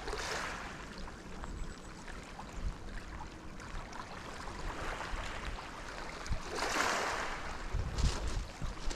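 Sea water washing against the shore: a steady wash with two swells of hiss, one at the start and a stronger one around seven seconds in.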